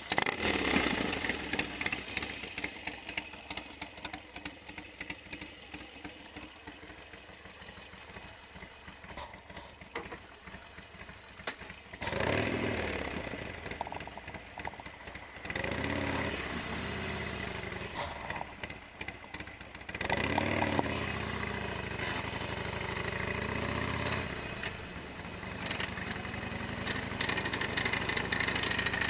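Harley-Davidson XL1200R Sportster's air-cooled V-twin engine running while riding, its revs rising and falling a few times, with louder pulls starting about twelve, sixteen and twenty seconds in.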